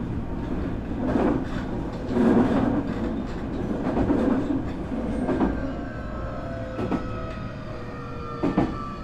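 Nankai 8300 series electric train running: wheels rumble and clack over rail joints. About five and a half seconds in, several whining tones from the Hitachi two-level IGBT VVVF inverter and Toyo Denki TDK-6315-A totally enclosed induction motors start up and slowly fall in pitch as the train slows.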